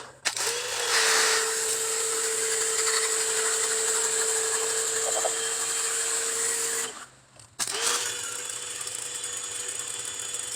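A small electric motor tool spinning up with a loud hiss and running steadily. It stops after about seven seconds, then spins up again a second later.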